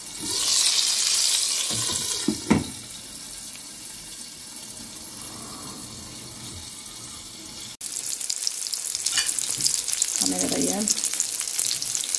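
Egg-batter-filled tomato rings frying in oil in a pan, a steady sizzle that is quieter while the glass lid is on, with a single knock about two and a half seconds in. About eight seconds in it jumps to a louder, crackling sizzle as a fork and spatula lift the browned rings.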